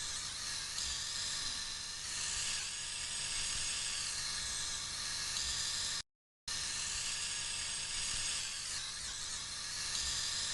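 High-pressure washer wand spraying water or foam, a steady hiss that shifts as the spray moves over the car, broken by a brief cut to silence about six seconds in.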